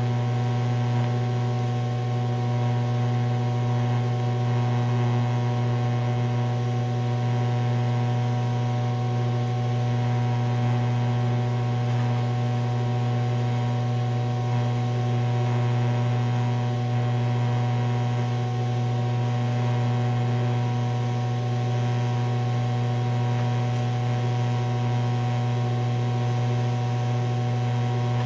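TIG welding arc on aluminum, run on direct current electrode positive: a steady hum with a faint hiss over it, unbroken throughout.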